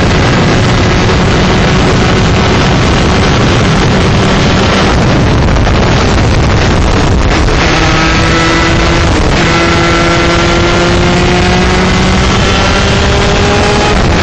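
125cc two-stroke shifter kart engine running hard at high revs, with heavy wind noise on the microphone. Its pitch sags and breaks off about halfway through, then climbs steadily toward the end as it accelerates.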